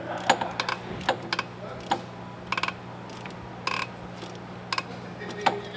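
Irregular sharp metallic clicks and clinks of hand tools being worked on a truck engine, including a quick run of three clicks about two and a half seconds in, over a steady low hum.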